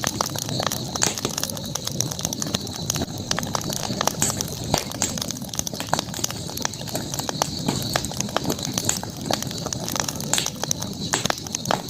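Campfire crackling: wood burning with many irregular sharp snaps and pops over the steady low noise of the flames.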